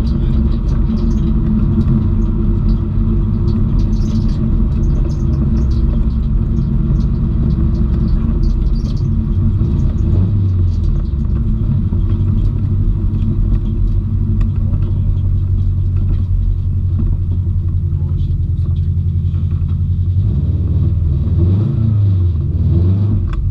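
Subaru Impreza WRX STI's turbocharged flat-four engine heard from inside the cabin, together with road noise, running at speed and then settling into a low steady drone at lower revs from about ten seconds in as the car slows. Near the end the engine pitch rises and falls a few times.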